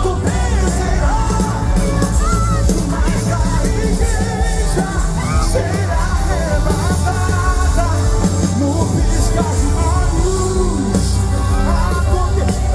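Live gospel band playing, with a voice singing over heavy bass.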